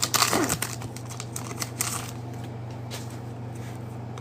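Trading cards and their packaging being handled: quick crinkling and card-on-card shuffling for about two seconds, then only a steady low electrical hum.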